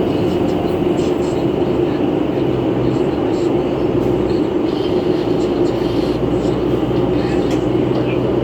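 Steady running noise inside a 2011 New Flyer C40LF CNG city bus on the move: a constant low hum with road and engine noise, and a faint steady higher tone over it.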